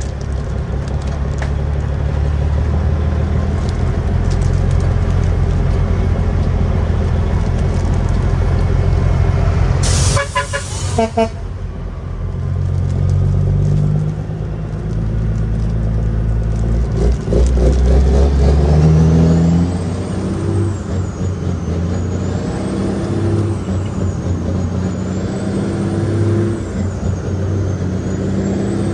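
Caterpillar 6NZ (3406E) inline-six diesel of a heavily loaded Kenworth W900L running under load, its pitch stepping up and down several times about halfway through. About ten seconds in, a loud blast of about a second cuts across the engine.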